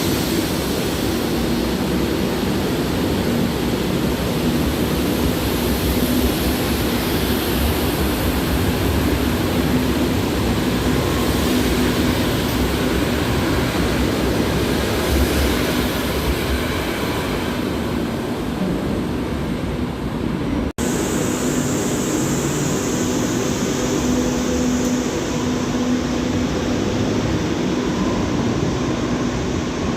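Madrid Metro train running, a steady rumble with a constant hum. The sound breaks off for an instant about two-thirds of the way through, then carries on.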